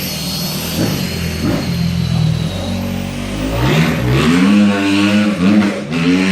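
Car engine idling, then revved in about four short blips over the second half. A high whine slowly falls in pitch over the first three seconds.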